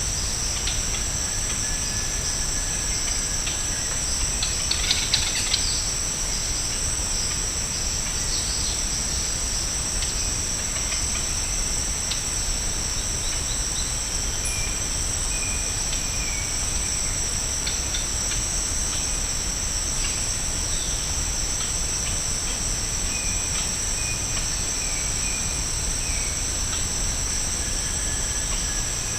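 Steady, high-pitched drone of a rainforest insect chorus at two pitches, with faint bird calls here and there and a brief cluster of clicks about five seconds in.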